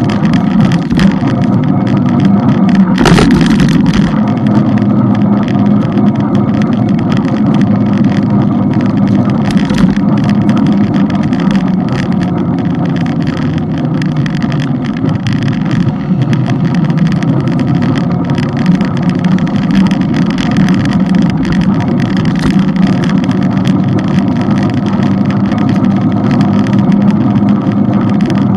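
Motorbike engine running at a steady cruising speed, with wind and road noise. There is a short loud burst of noise about three seconds in.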